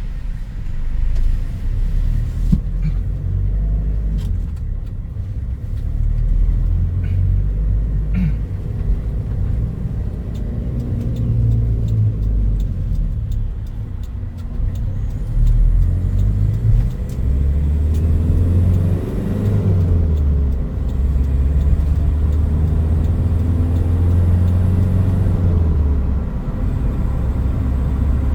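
Toyota Hilux Mighty-X pickup's engine running with low road rumble while driving. The engine note rises and falls in pitch in the second half.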